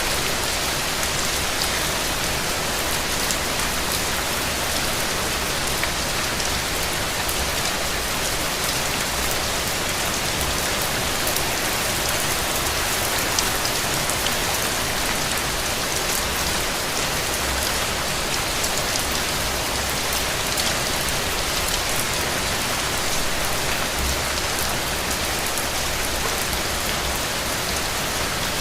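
Steady rain falling, with a dense patter of individual drops tapping.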